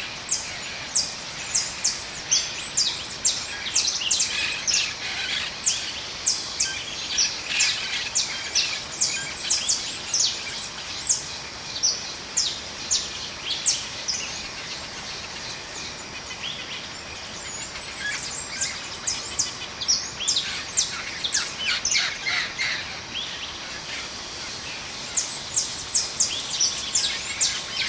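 Birds chirping: many short, very high-pitched chirps in quick runs over a steady outdoor hiss, thinning out around the middle and bunching up again near the end.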